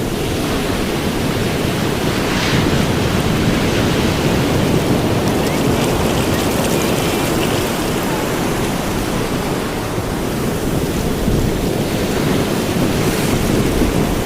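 Ocean surf on a beach: a steady rush of breaking and washing waves, swelling gently in loudness.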